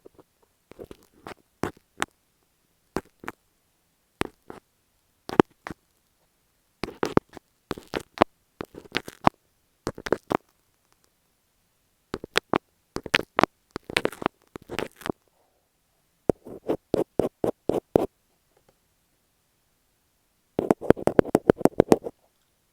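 Tapping and scratching on masking tape stuck over an earphone microphone: short clusters of sharp, close-up taps with silent pauses between, ending in a fast flurry of taps.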